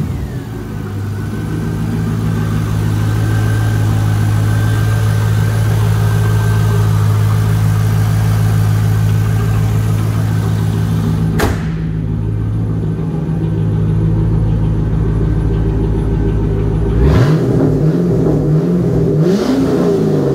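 2002 Pontiac Firebird Trans Am WS6's LS1 V8 idling steadily, then revved in several quick blips that rise and fall near the end.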